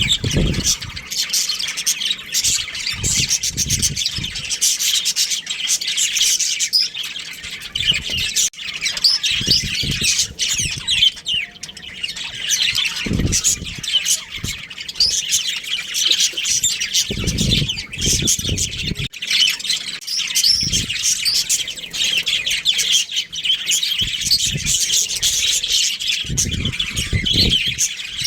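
Budgerigars chirping and chattering without pause, many quick calls overlapping, with dull low thumps every few seconds.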